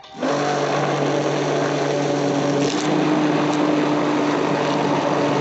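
Hand-held immersion blender running steadily in the warm oil and water phases of a homemade conditioner cream, emulsifying them. It starts up right at the beginning after a short pause, in the stop-and-start pulses used to avoid air bubbles, and its hum shifts slightly in pitch about halfway through.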